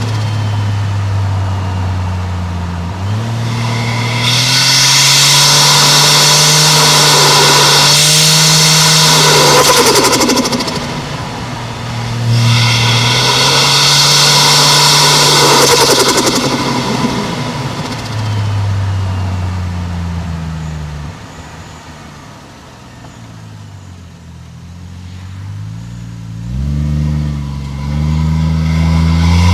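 Toyota 1JZ-GTE turbocharged straight-six accelerating hard twice, engine pitch climbing under a loud rushing hiss each time. It then eases off and runs quieter for a few seconds before revving up again near the end.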